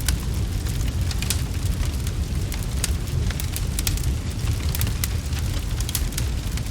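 Wood fire crackling, with frequent sharp pops at irregular moments over a steady low rumble.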